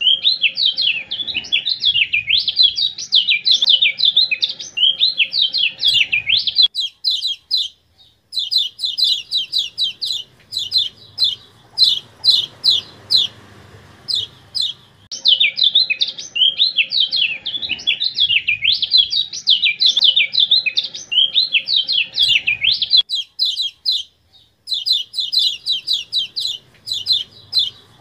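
Kecial kuning (a small yellow white-eye bird) singing in a looped masteran recording. Fast, twisting warbled phrases alternate with rapid strings of short sharp chip notes, and the whole sequence repeats about every fifteen seconds.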